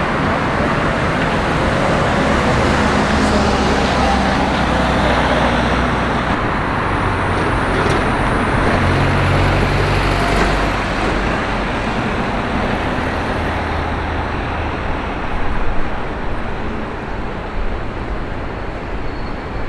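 Steady city street traffic noise from passing cars, with a deeper engine rumble building and fading about halfway through.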